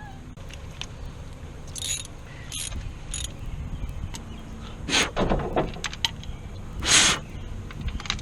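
Hand tools and metal parts being handled: scattered clinks and knocks, with several short rushing noises, the loudest about five and seven seconds in.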